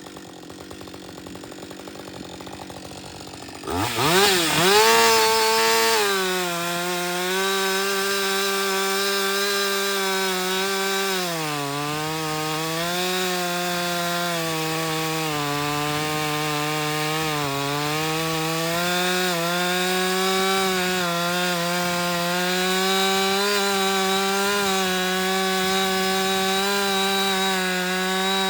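Gas chainsaw fitted with a new Dukes chain, first idling, then throttled up sharply about four seconds in and held at high revs while cutting wood. The engine pitch sags and recovers several times as the chain bites.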